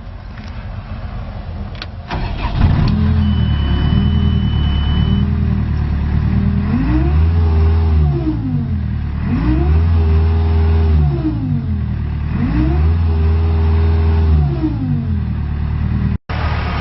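2012 Volvo MC110C skid steer's diesel engine starting about two seconds in, with a steady high beep for about two seconds just after. It then idles and is revved up, held and let back down three times.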